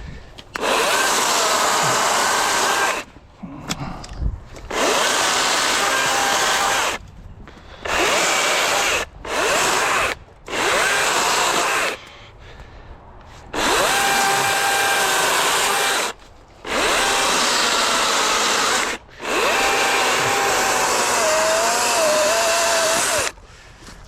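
DeWalt 60-volt brushless cordless chainsaw with a 16-inch bar cutting logs. The motor runs in about nine bursts of one to three seconds each and stops dead between them as the trigger is released. Its whine wavers as the chain bites into the wood.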